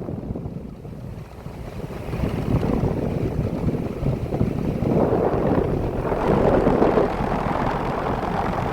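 Daikin DX16SA 4-ton central air conditioner condenser running, its fan blowing a steady rush of air, with wind buffeting the microphone. It gets louder about five seconds in.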